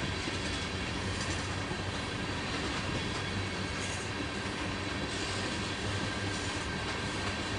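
Empty railroad tank cars of a freight train rolling past, a steady rumble of steel wheels on the rails with a faint, steady high squeal from the wheels.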